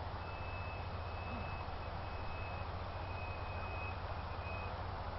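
Distant electric model aircraft in flight: a faint high whine that keeps breaking off and coming back, over a steady rushing noise.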